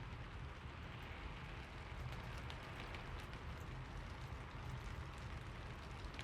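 Steady rain falling, with a low rumble underneath and scattered individual drops pattering close by.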